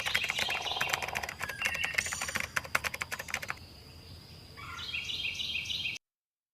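Birds chirping and chattering over rapid sharp clicks for about three and a half seconds, then a run of short, quickly repeated high chirps; the sound cuts off suddenly about a second before the end.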